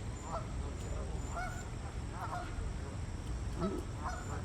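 Geese honking, a string of short calls about a second apart.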